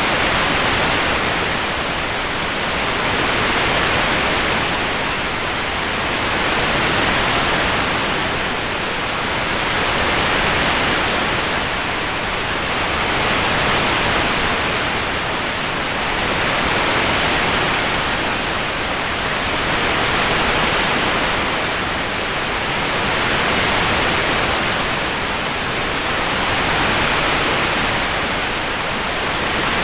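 Relaxing rain sound track: an even, steady hiss of rain with no separate drops standing out, gently swelling and easing every three to four seconds.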